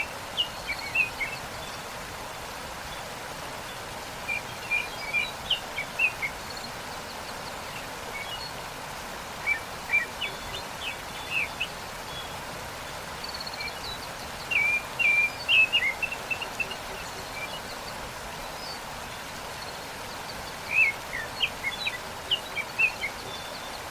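Steady rush of a waterfall with small songbirds chirping over it, in short bursts of quick high notes every few seconds.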